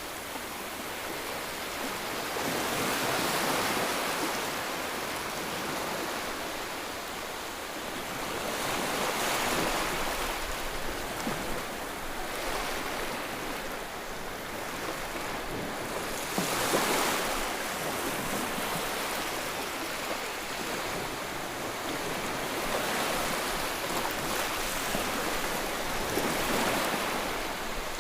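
A continuous white-noise rushing that swells and eases back every several seconds, like surf breaking on a shore.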